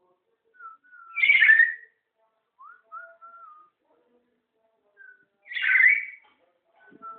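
Black-capped lory, a parrot in breeding condition, giving two loud, harsh squawks about four seconds apart, with short, soft whistled notes between them.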